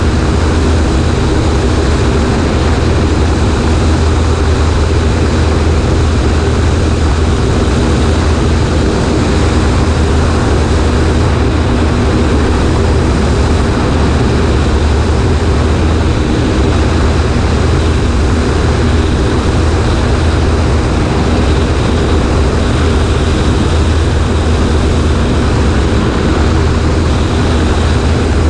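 Cessna 140A's piston engine and propeller running steadily, heard from the right wing with heavy wind rush over the microphone.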